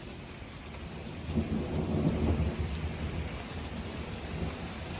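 Steady rain falling, with a low rumble of thunder that swells about a second in and dies away over the next couple of seconds.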